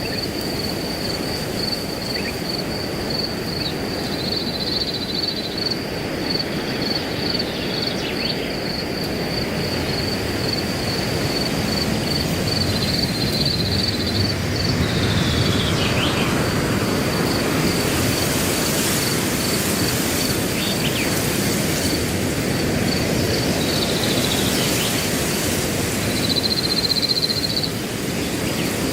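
Wind blowing through grass, growing stronger through the middle, over a cricket chirping steadily at a high pitch, about two chirps a second. A few short falling bird calls come in now and then.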